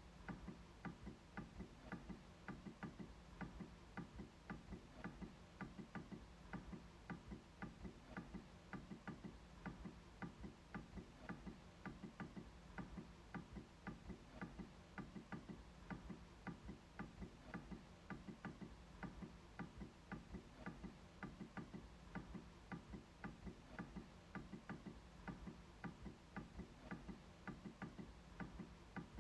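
MacBook trackpad being clicked repeatedly: faint, sharp clicks in a quick, even rhythm of two or three a second.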